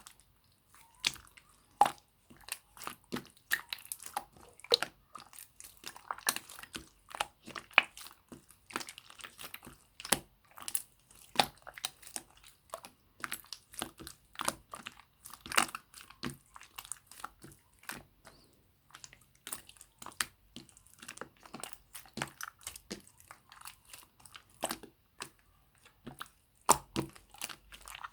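Clear slime mixed with small round beads being squeezed and worked by hand. It gives a quick, irregular run of crunchy clicks and pops, with brief pauses between handfuls.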